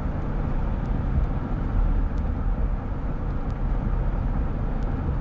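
Steady wind rush and road noise from riding a motorcycle in strong storm winds, a heavy low rumble on the microphone.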